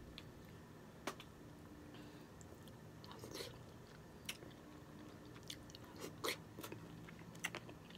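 Faint close-up chewing of snow crab meat, with scattered short wet mouth clicks and lip smacks every second or so.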